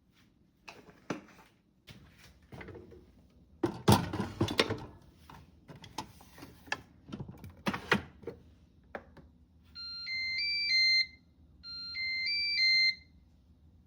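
Kitchen clatter of knocks and handling, then an electronic appliance chime plays a short stepped beeping melody twice.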